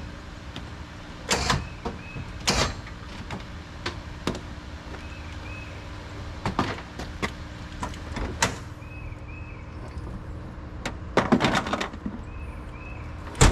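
A vehicle engine idling steadily under a series of sharp knocks and clunks, like car doors and metal being handled, with the busiest clatter about eleven seconds in. Faint paired chirps repeat every few seconds.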